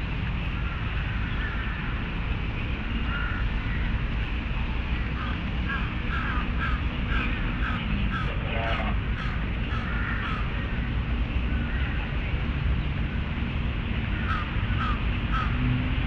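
A bird gives runs of short, evenly repeated calls, about two a second, in two bouts, over a steady low rumble.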